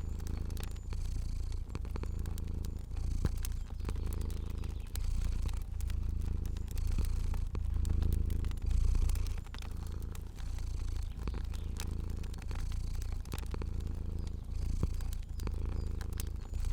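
Cat purring steadily, the rumble swelling and easing with each breath about once a second, over the light crackle and pops of a fire.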